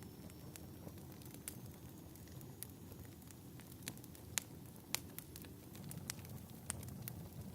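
Wood fire crackling: a low steady rumble with scattered sharp pops, the two loudest about half a second apart a little past the middle.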